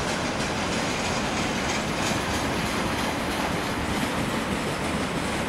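Freight train of railway tank cars rolling past: a steady rumble of steel wheels on the rails with a clickety-clack of wheels over the track.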